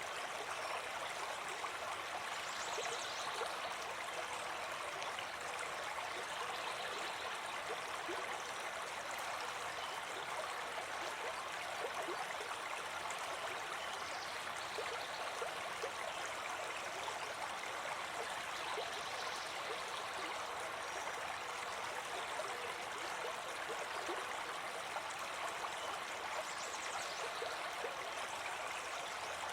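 A small brook babbling: a steady rush of running water with many small trickles and gurgles.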